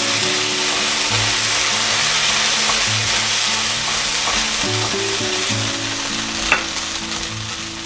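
Sautéed okra and wet ground-coconut masala paste sizzling in oil in a nonstick pan while being stirred and mixed with a silicone spatula, with one light knock about six and a half seconds in.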